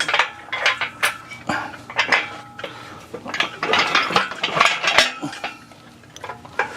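Metal rattling and clanking in irregular knocks and clinks, from a workshop engine crane being moved into place, its chain and hook jangling.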